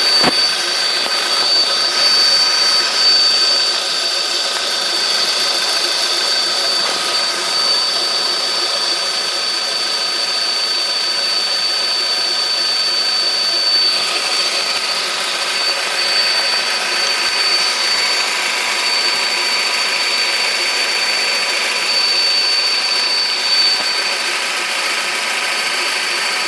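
Volkswagen Polo Sedan engine running, with a steady high-pitched whistle from under the bonnet over the engine noise. The owner suspects a worn or slipping accessory drive belt, or the alternator.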